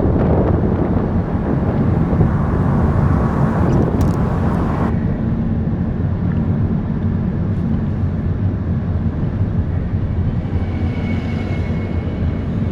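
Steady low rumble of a car driving, with road and wind noise; a higher hiss drops away suddenly about five seconds in.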